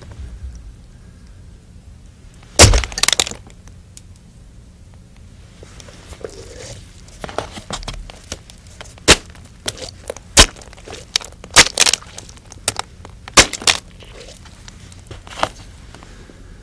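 A melon being smashed with a hammer: one hard hit about two and a half seconds in, with a brief wet cracking splatter, then a run of sharper cracks and squishes as the fruit breaks apart.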